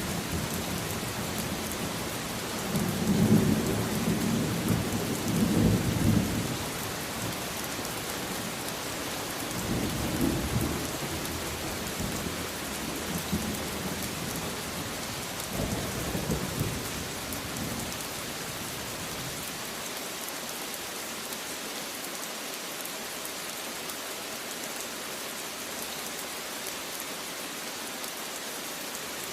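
Steady rain falling in an even hiss, with low thunder rumbling several times in the first two-thirds, loudest a few seconds in; after that only the rain is left.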